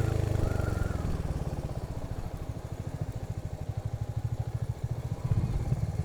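Motorcycle engine running at low revs, its firing pulses an even, rapid putter, getting louder again about five seconds in as the throttle opens.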